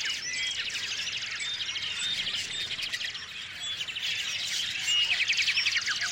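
Several small songbirds chirping and calling over one another, with short whistled notes and rapid trills; a louder trill comes about five seconds in.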